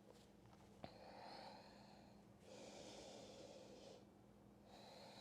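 Faint, slow breathing: three long breaths, each about a second and a half, with a small click near the start.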